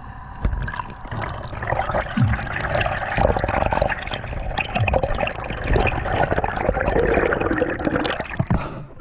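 Sea water sloshing and gurgling with no letup, with a few short low sounds that drop in pitch.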